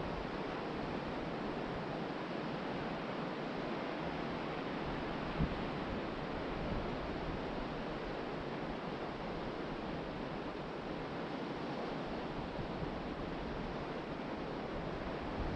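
Ocean surf breaking and washing onto a beach, a steady rushing hiss, with wind. A brief low thump about five seconds in.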